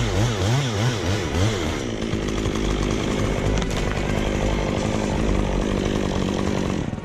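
Chainsaw engine revved up and down in quick pulses, about two a second, then held at a steady high speed; it cuts off suddenly near the end.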